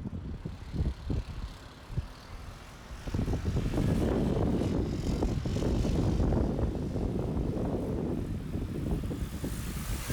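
Road traffic: a passing vehicle's engine rumble builds about three seconds in and holds steady, with wind buffeting the microphone and tyre hiss rising near the end.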